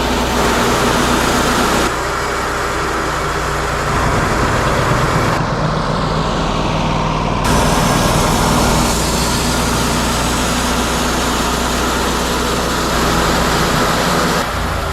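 Wood-Mizer LT40 Hydraulic portable bandsaw mill running loud and steady while sawing a large ponderosa pine log. The sound changes abruptly several times, as between spliced clips.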